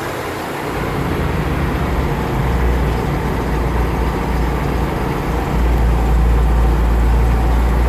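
V8 engine of a 1974 GMC 6500 dump truck running as the truck drives, with a steady low rumble. It gets louder about half a second in and again about five and a half seconds in.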